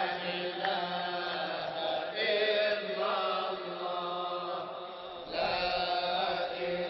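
Sufi devotional dhikr music between the lead singer's lines: a sustained, chant-like melody over a steady drone, quieter than the sung verses, dipping briefly about five seconds in.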